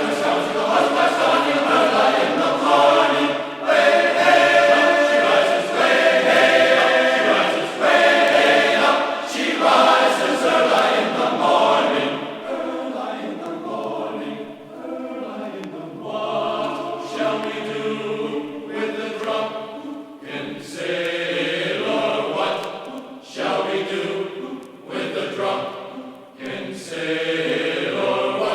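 Background music of choral singing: several voices holding and changing long chanted notes.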